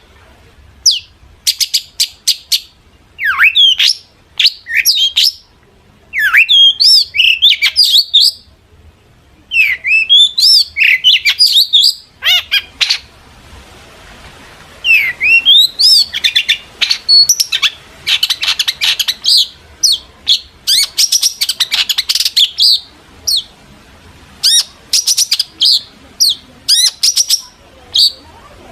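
Long-tailed shrike (cendet) singing a rapid, varied song of sharp chirps and sweeping whistles, a song filled with imitated calls of other birds. There is a short pause about halfway through, followed by a dense run of quick notes.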